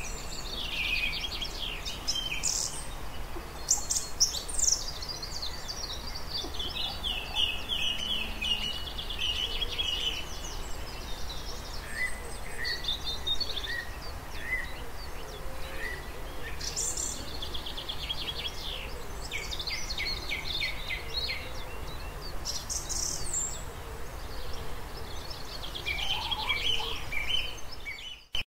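Several birds singing at once, a busy mix of chirps, trills and repeated notes, over a steady low rumble. It cuts off abruptly near the end.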